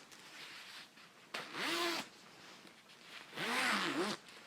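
Zipper on a packable coat being pulled fast, two quick zips each under a second long, their pitch rising and then falling, with light rustling between strokes.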